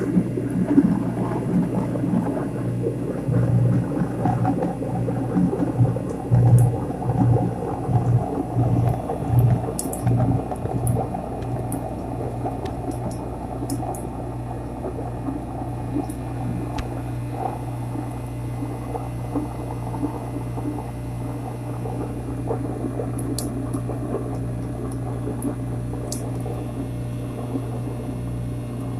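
Kitchen garbage disposal running with water flowing through it: a steady motor hum under churning, gurgling water, surging unevenly through the first ten seconds or so and then settling into an even run.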